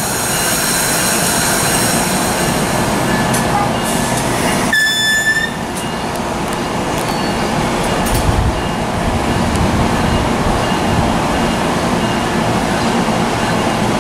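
A train running past on the rails, a steady loud rumble and hiss of wheels and cars. High wheel squeal fades over the first couple of seconds, and a short, high single-pitched tone sounds about five seconds in.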